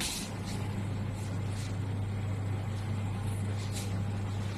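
Hybrid AC/DC solar air conditioner running in cooling mode: a steady mechanical hum, with a few brief faint rustles on top.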